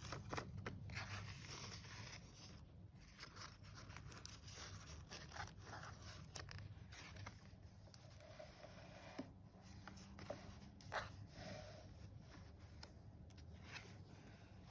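Paper pages of a handmade junk journal being turned and handled, giving faint rustling and crinkling with many short crisp swishes.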